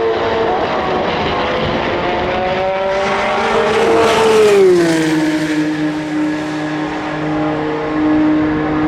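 WEC endurance race cars running at speed along a straight. One passes close about four seconds in, its engine note dropping sharply as it goes by, while a lower engine note carries on steadily afterwards.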